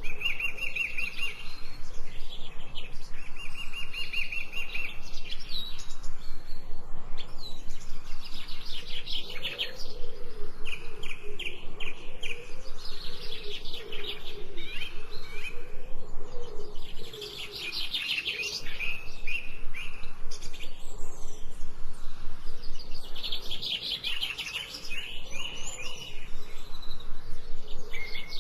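Wild birds chirping and singing, several overlapping trills and rapid chirps repeating every few seconds. A lower wavering call runs beneath them for a while in the middle.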